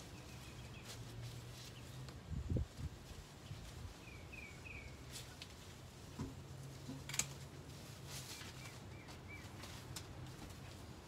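Faint bird chirps, short calls in quick groups of three, heard twice over a steady low hum. A few low thumps about two and a half seconds in are the loudest sound, and there is a sharp click near seven seconds.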